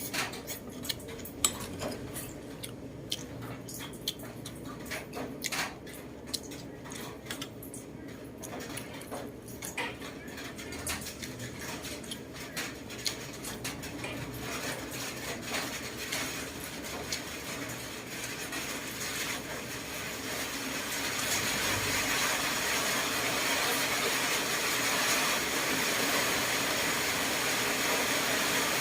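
Kitchen cookware sounds: a string of light clinks and taps of utensils against pots or dishes, then a steady hiss that builds up over the second half.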